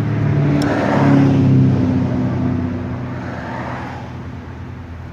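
A motor vehicle passing by: a low engine hum and tyre noise that swell about a second in, then slowly fade.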